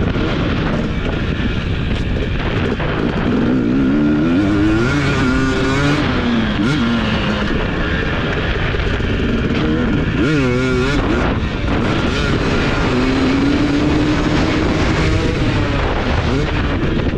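Husqvarna TC250 motocross bike's engine revving up and down through the gears over a steady rush of noise, its pitch wavering around the middle and then climbing steadily near the end.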